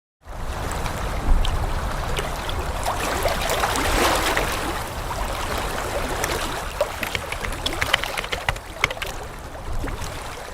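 Water rushing and splashing with a low rumble and scattered sharp clicks, starting abruptly and fading near the end.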